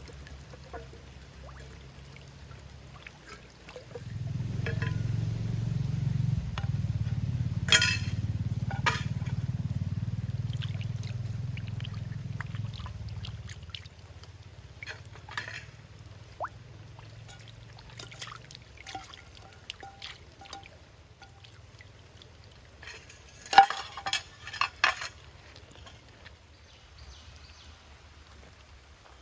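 A low rushing sound for about ten seconds, then scattered small clicks and a quick run of loud clinks of metal camping cookware near the end.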